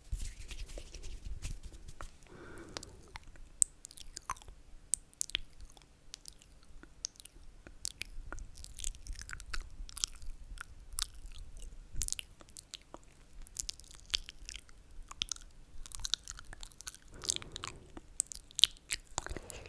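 Close-miked wet mouth sounds for ASMR: rapid, irregular clicks and smacks of lips and tongue, with a couple of soft breathy slurps.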